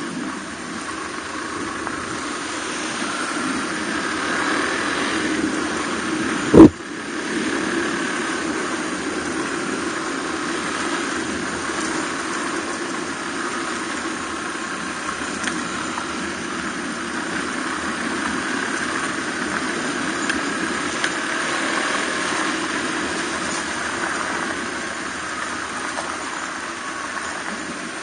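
Suzuki DR250R's single-cylinder four-stroke engine running steadily while riding, with one sharp, loud knock about a quarter of the way in.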